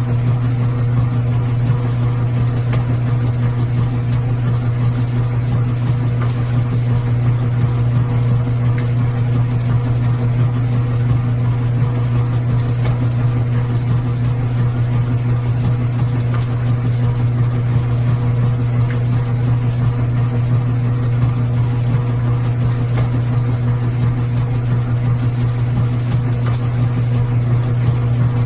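Washing machine running with a steady low hum and a few faint ticks, unchanging throughout.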